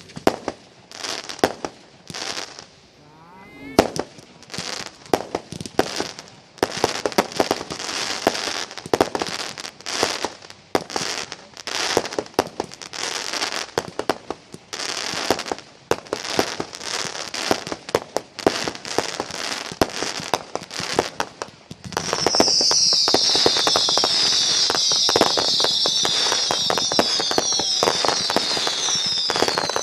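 Fireworks display: a rapid run of aerial shell bursts, sharp bangs and crackling. About two-thirds of the way in it builds to a dense, continuous barrage with many short, high, falling whistles over it.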